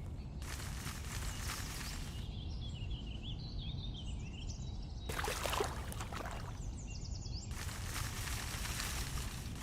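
Outdoor ambience: a steady low rumble broken by stretches of hissing noise, with birds chirping briefly in a quieter gap a couple of seconds in.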